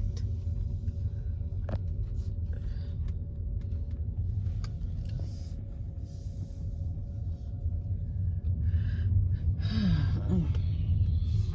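Steady low rumble of a car driving slowly, with a few light knocks and a brief murmur of voice near the end.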